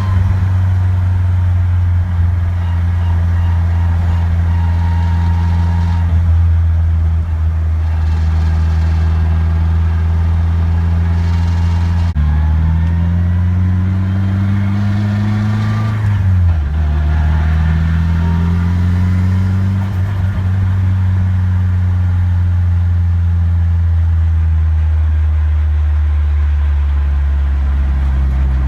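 A Nissan S13's SR20DET turbocharged four-cylinder engine heard from inside the cabin while the car drives at a steady pace. About halfway through, the revs climb for a few seconds, then drop sharply at a gear change, and it settles back into a steady run.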